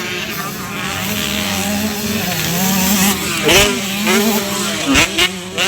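Racing motorcycle engines revving, their pitch wavering up and down over a steady low drone, with several short sharp blasts about halfway through and near the end.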